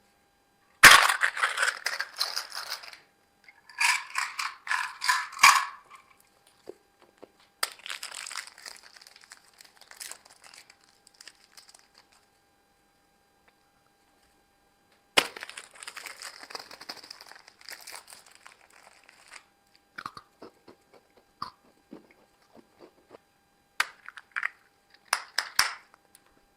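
Plastic snack wrappers crinkling and being torn open in several loud bursts, then quieter scattered crackles and clicks toward the end.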